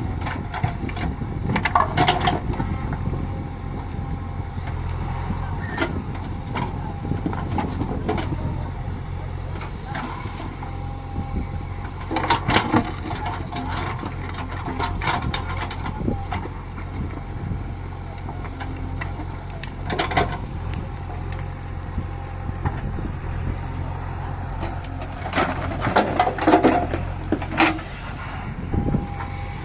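JCB backhoe loader's diesel engine running steadily, with bursts of clattering knocks as stone is tipped from the loader bucket into the tractor's tipper trailer, the loudest clusters coming near the end.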